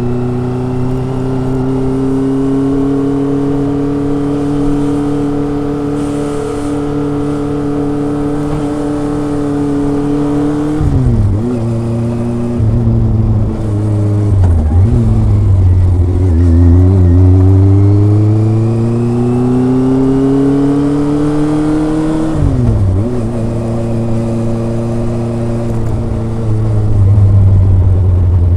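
Kawasaki ZRX's inline four-cylinder engine and exhaust under way, a gentle four-cylinder sound. The revs climb slowly and steadily, drop sharply about eleven seconds in and again near two-thirds through with short blips, then rise again as the bike pulls away.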